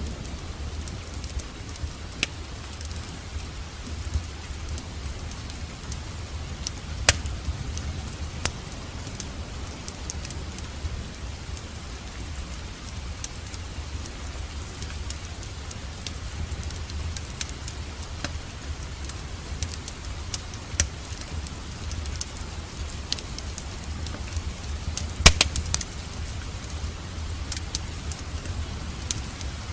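Steady rain over a low rumble, with a wood fire in a fireplace crackling: scattered sharp pops, the loudest about 7 seconds in and again near 25 seconds.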